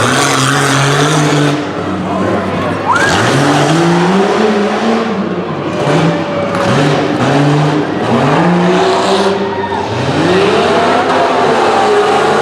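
Jeep Cherokee XJ engine revving hard and easing off again and again, its pitch climbing and dropping every second or two, over a steady rush of noise.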